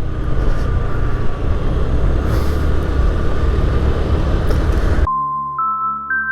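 Wind rushing over the microphone and road noise from a Honda Activa 5G scooter riding along. About five seconds in it cuts off suddenly to music: a melody of clear single notes stepping upward in pitch over a low sustained drone.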